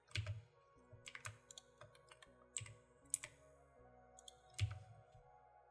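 Computer keyboard keys and mouse clicking at irregular intervals, with faint background music underneath.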